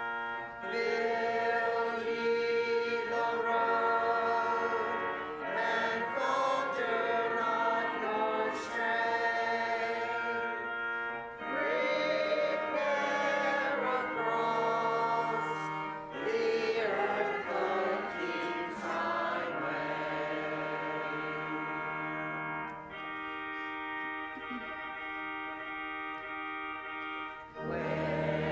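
Church congregation singing a hymn together, accompanied by organ with long held chords. For a few seconds near the end the voices drop out and the organ holds a steady chord alone, then the singing starts again.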